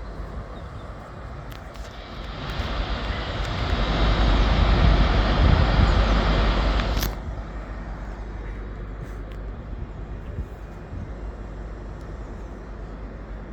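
A train in the station: a rushing noise with a deep low rumble swells over a few seconds, then stops abruptly about seven seconds in, leaving the steady hum of the station.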